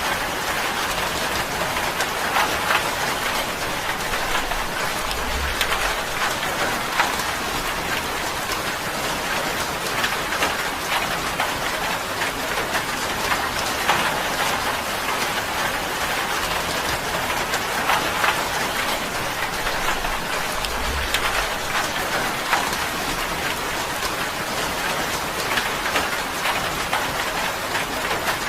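Steady rain drumming on a tin roof: a dense patter of countless drop ticks. A brief low thud comes twice, about five seconds in and again about twenty-one seconds in.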